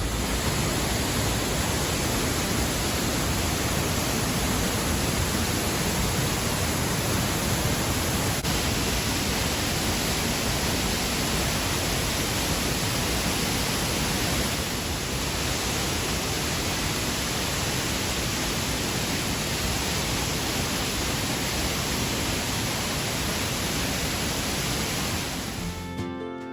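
Waterfall: water falling with a steady, even rushing noise that does not let up.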